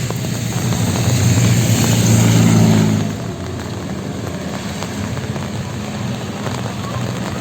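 A motor vehicle passing close on a wet street, its engine hum growing louder over the first few seconds and falling away sharply about three seconds in, over a steady hiss of rain.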